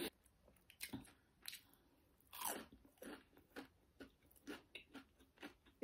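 Faint crunching and chewing of a crispy, crumb-coated fried veg chicken nugget, in about a dozen soft, irregular crunches.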